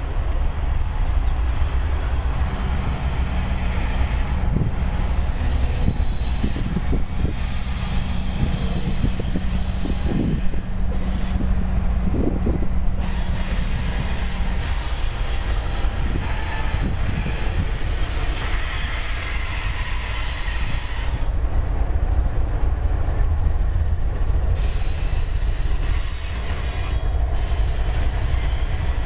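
Freight train going by: the deep, steady rumble of GE diesel locomotives working, with rail and wheel noise over it. The locomotives pull alongside near the end.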